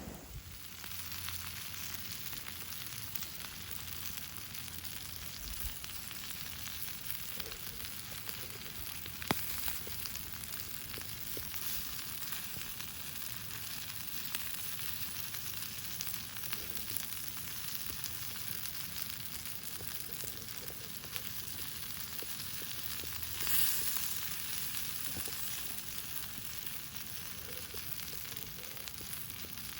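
Meat sizzling as it grills over a campfire: a steady frying hiss with small crackles. There is a single sharp click about nine seconds in, and the sizzle swells louder briefly near twenty-four seconds.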